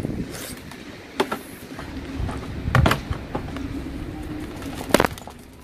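A few sharp knocks and scrapes as a juniper bonsai's root ball and soil are worked loose from its pot, the loudest knock near the end, over a steady low background hum.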